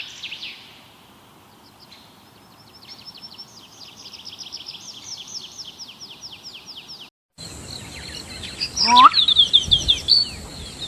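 Songbird calls. First a fast trill of short repeated high notes, then, after an abrupt break about seven seconds in, a different recording of louder, sharper chirps.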